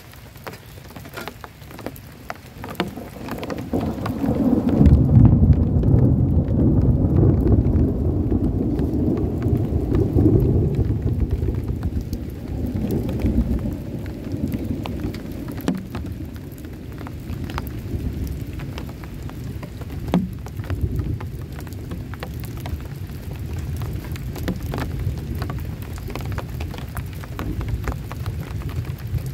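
Heavy rain pattering on a tent, with a peal of thunder that swells a few seconds in, rumbles for several seconds and slowly dies away.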